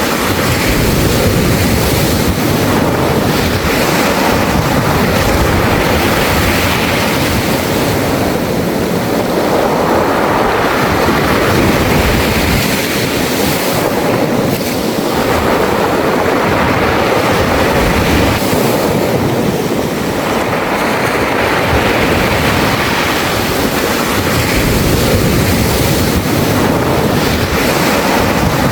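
Sea waves washing in and out over a beach of round pebbles, the pebbles rattling in the surf; the wash swells and eases about every five seconds.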